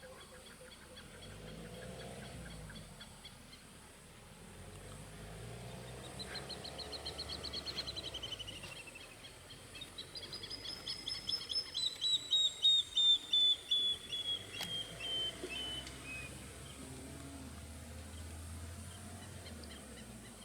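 A bird calling in two long phrases of fast, evenly repeated high notes that run downward in pitch, the second phrase louder, over a faint low rumble.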